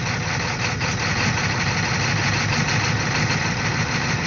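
Ford 6.9-litre IDI V8 diesel engine of a 1986 F-250 idling steadily, an engine the owner calls a little tired, running again after sitting for years.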